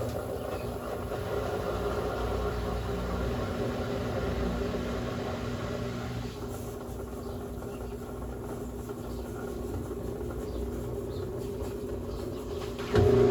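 Brastemp Ative 11 kg top-load washing machine running through its cycle in a quieter stretch, a low steady mechanical noise without the motor's strong hum; the louder pitched motor hum comes back near the end.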